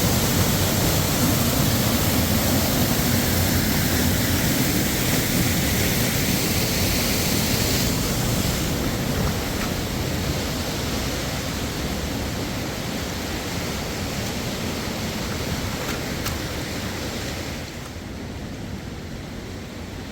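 Steady rushing noise with no distinct events; it gradually lessens, and the hiss thins out in two steps, about eight seconds in and again near the end.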